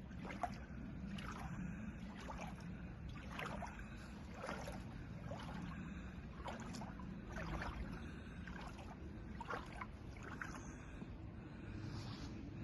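Floodwater splashing in a slow rhythm, about one splash a second, over a steady low hum.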